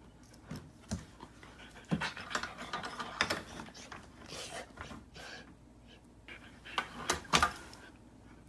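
A dog panting, with irregular short clicks and scuffs.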